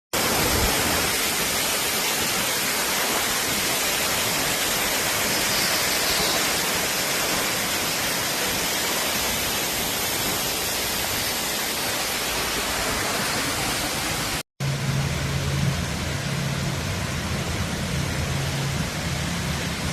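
A loud, steady rushing noise for about fourteen and a half seconds, broken off by a sudden cut. After the cut the rush goes on a little quieter, over the steady low hum of the RIB's engine.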